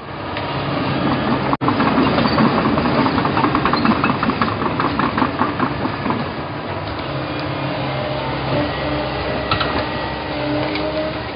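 Excavator running, its diesel engine droning steadily, with a rapid regular clatter through roughly the first half. The sound drops out for an instant about a second and a half in.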